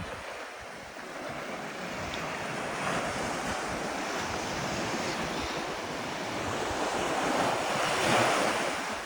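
Sea waves washing onto the shore, swelling to a loudest break about eight seconds in, with wind buffeting the microphone.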